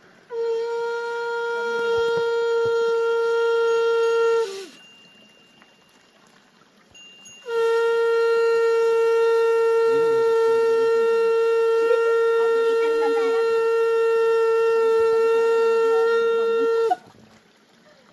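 Conch shell (shankh) blown in two long, steady notes at one pitch: the first about four seconds long, then a pause, then a second held for about nine seconds.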